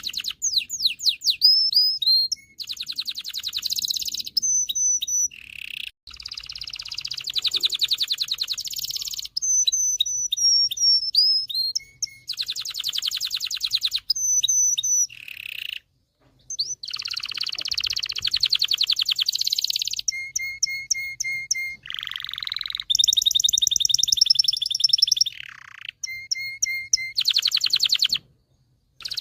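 Domestic canary singing a long, loud song of changing tours. Phrases of rapid repeated notes and rolls alternate with downward-sweeping whistles and trills, each lasting a second or two, with brief pauses between.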